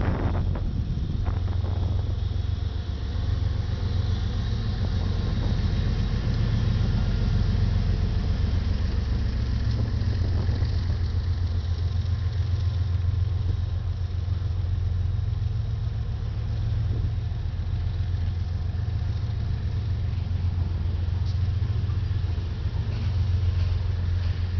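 Freight train passing close by: the steady low hum of a mid-train diesel locomotive's engine, mixed with the rolling of loaded covered hopper cars on the rails. There is a brief clatter right at the start.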